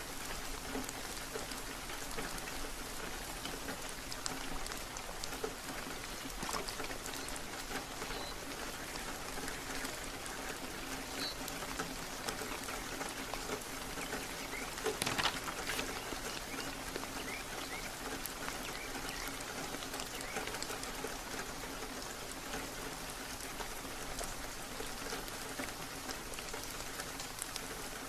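Steady rain: an even hiss of falling water with many small drop ticks on a surface, and a brief louder spell of drops about halfway through.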